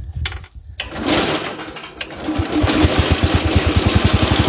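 Kohler K301 12-horsepower single-cylinder engine on a Gilson garden tractor running with a steady, even beat, which sets in about two seconds in after a few clicks.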